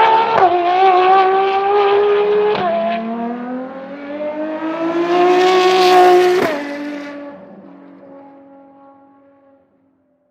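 Ferrari FXX K's V12 accelerating hard through the gears, its pitch climbing and then dropping sharply at each of three upshifts. The car passes close at its loudest about six seconds in, then its steady note fades away into silence.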